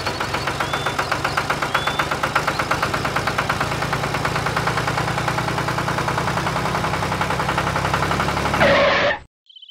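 Small engine running at a steady idle with a fast, even chug, then cutting off suddenly near the end.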